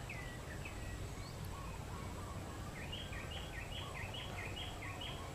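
Faint outdoor ambience: a bird calling a few short falling notes, then a quicker run of chirps starting a little past halfway, over steady low background noise.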